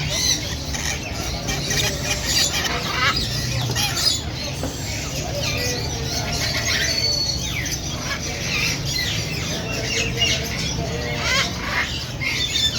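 Parrots squawking and screeching in many short, harsh calls, over a steady low hum.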